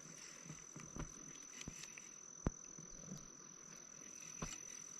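Faint, steady, high-pitched insect trill that holds one pitch, with a few sharp clicks scattered through it, the loudest about two and a half seconds in.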